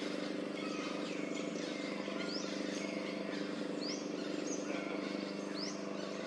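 Outdoor ambience: a bird gives a short, high, rising call three times, about a second and a half apart, over a steady low hum and a faint hiss.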